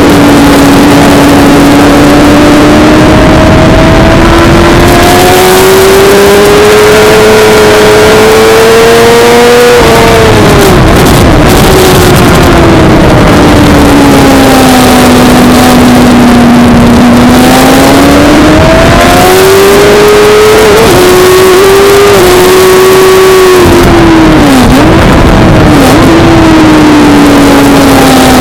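Suzuki GSX-R600's inline-four engine at full-throttle track revs, its pitch climbing steadily through a long pull and then falling sharply about ten seconds in as the throttle is shut. It then climbs through another pull, with short quick dips in pitch near the end.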